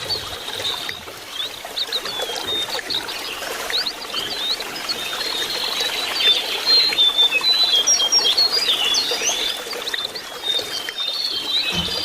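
Lesser shortwing singing: a rapid, jumbled run of high chirps and short whistled slides, busiest in the middle.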